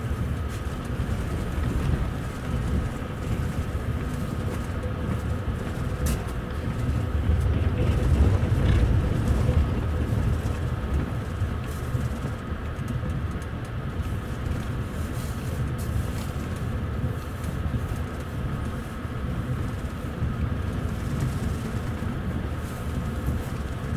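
Steady low rumble of a moving double-deck passenger rail coach, heard inside on the upper deck. A faint steady whine runs through it, and the rumble swells for a few seconds about a third of the way in.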